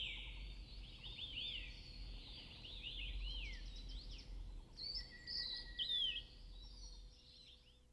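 Several babbler-family birds calling together: many short, quick chirps that sweep up and down in pitch and overlap one another, fading out near the end.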